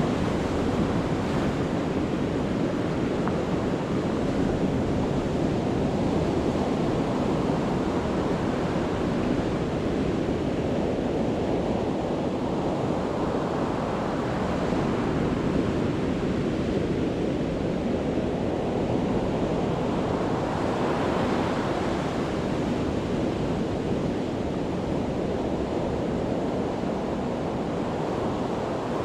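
Sea surf: waves breaking on the beach in a continuous wash, swelling and brightening each time a wave breaks, about three times.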